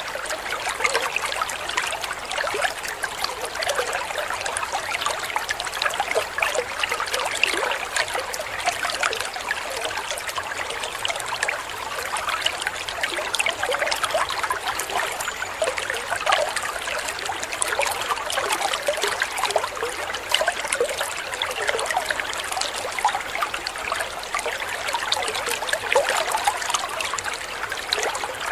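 A small waterfall running steadily, a continuous trickling and splashing rush. It is mostly light and splashy, with little low rumble.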